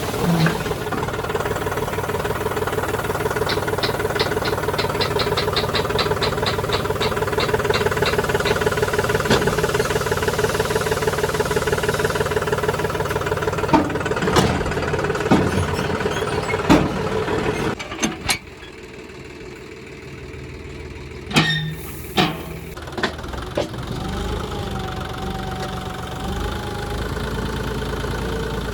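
Engine running steadily, with a few sharp knocks. About 18 seconds in the engine sound suddenly gets much quieter, and a fainter running sound with a wavering tone carries on.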